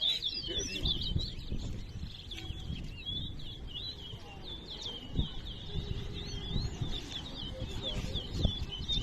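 Towa-towa seed finches singing fast, busy chirping phrases over a low rumble, with a couple of dull knocks.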